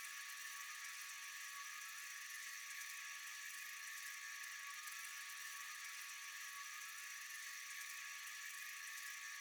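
Steady, continuous chorus of night insects: a dense high-pitched trilling hiss with a thin steady tone beneath it and no change in level.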